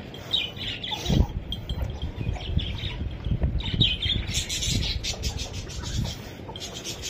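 Birds chirping, with a few short squawks, over scattered low knocks and a heavier thump about a second in.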